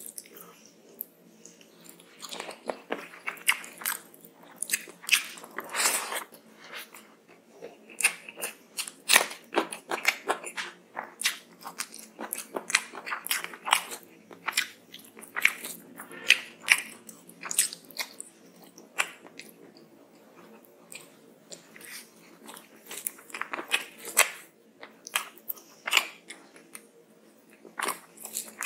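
Close-miked eating sounds: chewing and crunching of rice and curry eaten by hand, as an irregular run of sharp wet mouth clicks and smacks, several a second.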